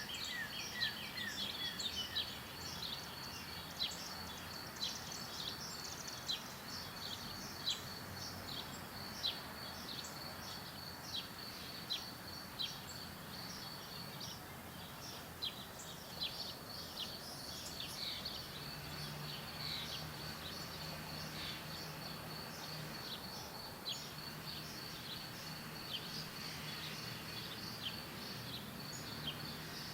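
Birds chirping in short, sharp calls, about one or two a second, over a steady high insect trill.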